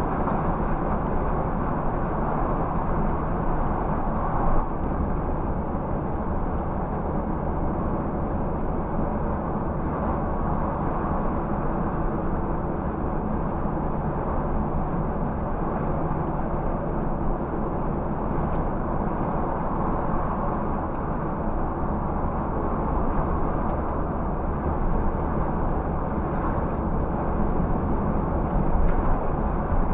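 Scania 360 truck's diesel engine running steadily under way, with road noise; a brief knock about four and a half seconds in.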